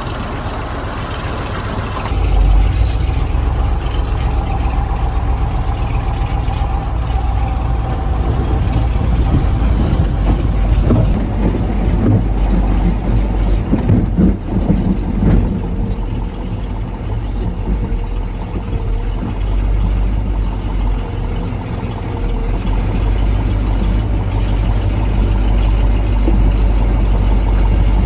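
1985 KAMAZ 4310 6x6 military truck's V8 diesel engine running while it drives off-road, a loud, steady low rumble. In the middle come a run of knocks and rattles.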